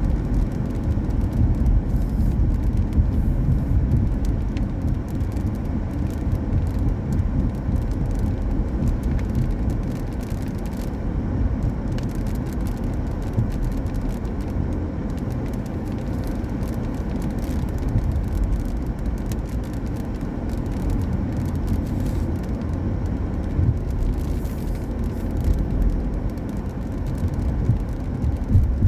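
Car driving on a wet road: a steady low rumble of road and tyre noise.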